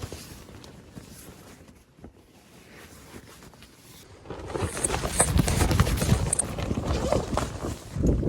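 Quiet at first, then about four seconds in, loud rustling and scuffing footsteps start as someone moves out through the tent and over the ground.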